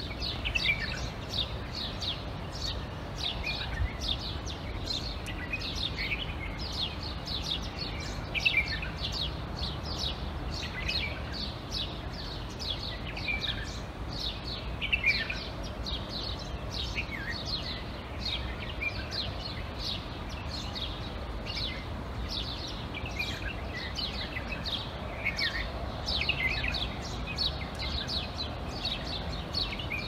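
Many small birds chirping together in a busy chorus of short, high notes that slide downward, over a steady low background rumble.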